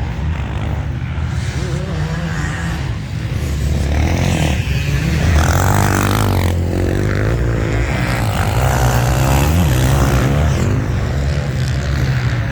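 Motocross bike engine running hard, its revs rising and falling over and over as it is worked on the throttle through the gears.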